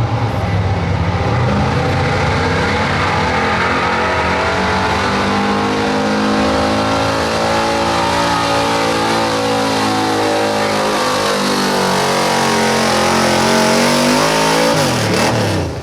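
1978 Chevrolet pickup's gas engine held at high revs under heavy load, pulling a weight sled. It runs loud and steady with its pitch sagging slowly, then drops away sharply near the end as the throttle is let off.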